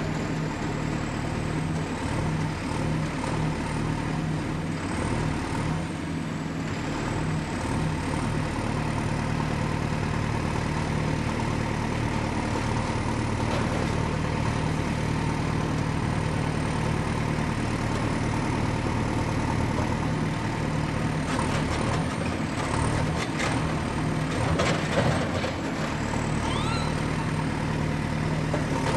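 Excavator's diesel engine running steadily, with a cluster of sharp knocks about three-quarters of the way through.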